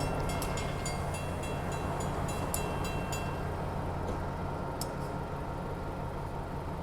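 Excursion train pulling away: a steady low locomotive engine drone with scattered sharp clicks of wheels over the rails, slowly fading.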